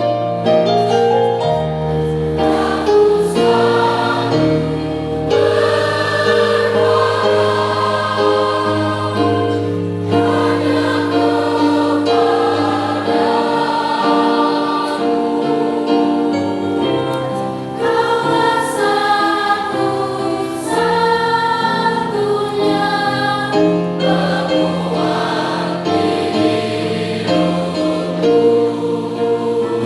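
A mixed school choir singing a Christmas song in parts, with sustained chords over held low keyboard notes.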